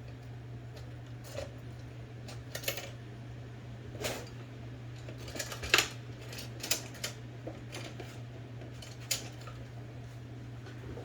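Light clicks and taps of small metal tools and parts being handled on a workbench, about a dozen scattered sharp ticks over a steady low hum.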